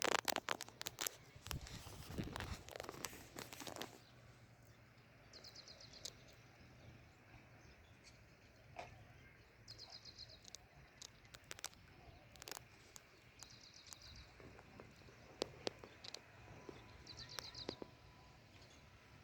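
Short, high chirps from a bird, each a quick rapid series, repeating about every four seconds. The first few seconds hold close rustling and clicking.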